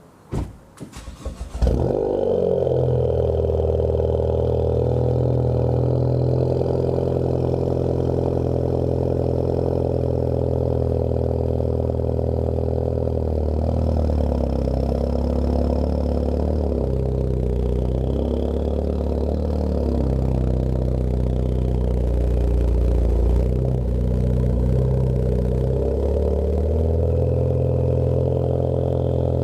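2013 Ford Focus ST's turbocharged 2.0-litre four-cylinder, fitted with a Roush cat-back exhaust, cranking briefly and catching a little under two seconds in. It then settles into a steady idle that wavers slightly in the middle.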